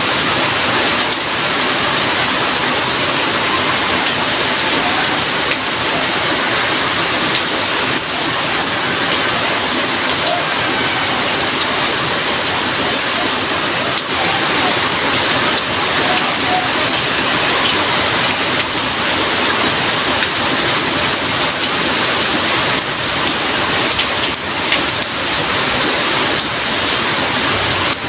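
Heavy rain falling steadily, a dense even hiss of drops on surfaces with scattered sharper drop ticks.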